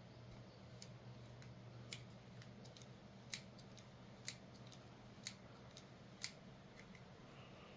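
Leatherman SIGNAL multitool's pliers being opened and closed by hand, with sharp metal clicks about once a second and fainter ticks between. The pivots are oiled with sewing-machine oil and are being worked to loosen old grime.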